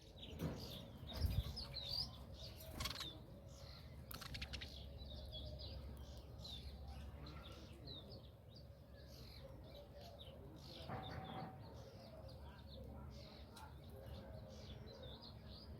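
Small birds chirping over and over in short, high calls, with a few brief sharp bursts in the first few seconds.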